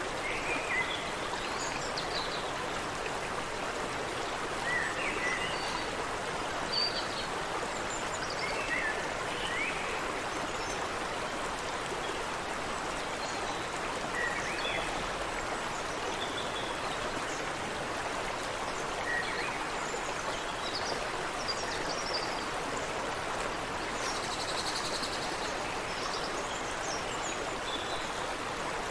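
Water running steadily over rocks in a creek, with birds chirping and calling now and then throughout in short, quick notes.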